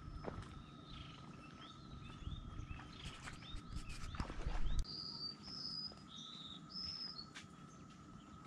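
Wild birds calling: quick chirps in the first half, then several short clear whistled notes at two pitches from about five seconds in. Under them runs a steady high tone, and a low rumble that drops away just before the whistles begin.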